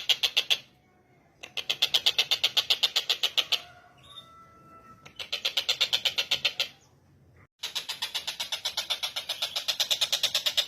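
Tengkek buto calling in long runs of rapid, evenly repeated harsh notes, several a second. The runs are broken by short pauses about a second in and again near the seven-second mark, with a few soft whistled notes in between.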